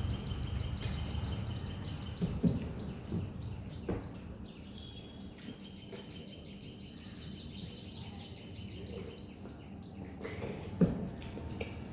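Close-up eating sounds: chewing and mouth noises with many small clicks, a louder knock about two and a half seconds in and another near the end. Quick runs of high bird chirps sound in the background.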